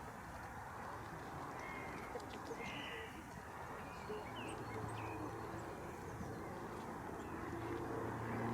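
Scattered short bird calls over a steady rushing background, with a low steady hum coming in about halfway through.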